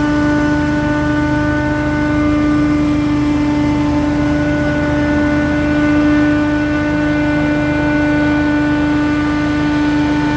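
Scag Windstorm stand-on leaf blower running steadily at full power: a constant high fan whine over the engine's rumble.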